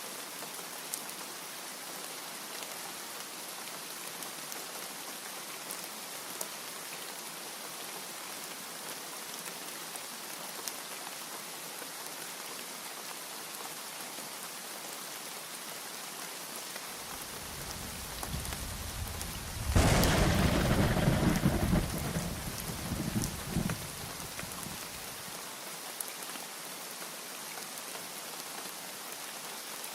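Steady heavy rain hissing and pattering, with a single thunderclap near the end that builds from a low rumble into a loud crack and rumbles off over a few seconds.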